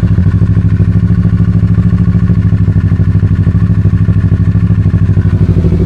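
2020 Kawasaki Z650 ABS's parallel-twin engine idling steadily as it warms up after an oil change, with an even, rapid exhaust pulse.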